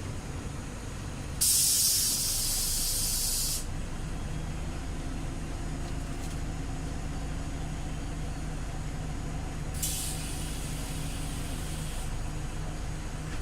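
Scania OmniLink city bus idling with two bursts of compressed-air hiss from its pneumatic system: a loud one lasting about two seconds shortly after the start, and a weaker one of similar length near the end.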